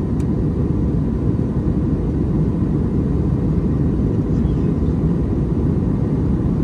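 Steady in-flight cabin drone of an Airbus A321neo: engine and airflow noise, low and even, with no change in level. A single small click sounds just after the start.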